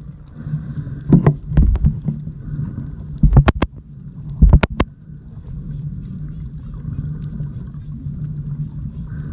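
Spinner dolphins clicking underwater, with faint high chirps, over a steady low hum. Several loud knocks come in clusters during the first half.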